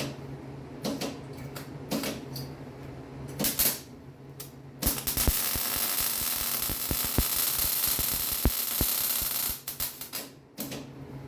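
A few scattered metallic clicks and knocks, then an electric welding arc runs for about five seconds with a steady crackling hiss, and cuts off about ten seconds in.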